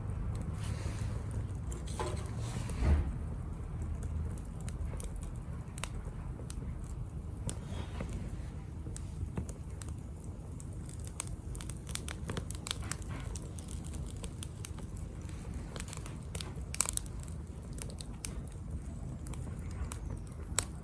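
Small wood fire burning in a Captain Stag Kamado Smart Grill B6, crackling with irregular sharp snaps. Louder pops come about three seconds in and twice near the end, over a low steady rumble.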